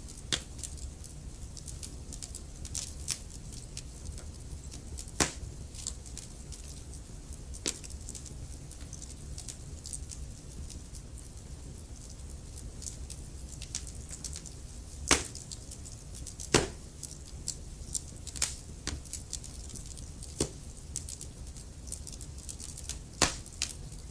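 Wood fire burning in a fireplace: logs crackling and popping at irregular intervals over a low steady rumble of the flames, with two louder pops in the middle.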